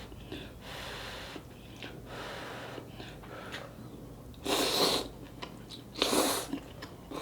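A person eating close to the microphone: quiet mouth noises, then two loud sniffs about a second and a half apart.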